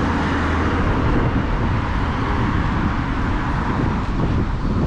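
A car driving past on the road close by: a steady rush of tyre and engine noise.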